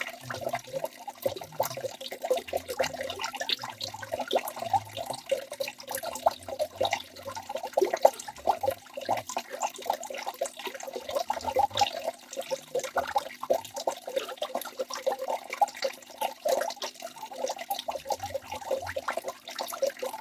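Waterfall: falling water splashing and gurgling in a dense, uneven patter, with occasional low thuds.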